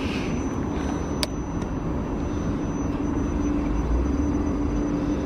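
Electric multiple-unit train pulling out of the platform: a steady low rumble with a steady motor hum, growing slightly louder. A single sharp click about a second in.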